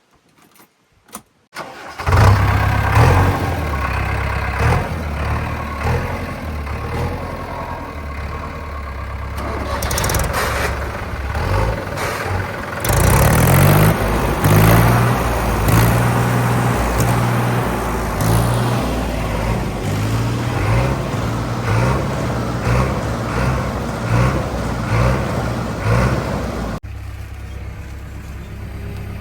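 Heavy diesel engine of a backhoe loader or tractor running hard after a couple of seconds of quiet clicks, its pitch rising and falling as it works. Near the end the sound drops to a quieter, steadier engine drone.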